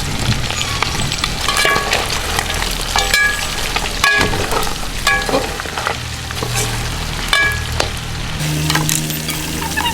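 Food frying and sizzling in hot oil in a pot over a fire, stirred with a metal ladle that scrapes and knocks against the pot every second or so. A steady low hum runs underneath.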